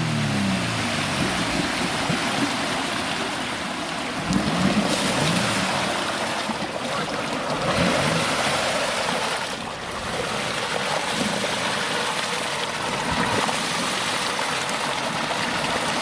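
An off-road SUV's engine revving in short rising and falling bursts, at the start, about four seconds in and again about eight seconds in, over a steady rushing noise.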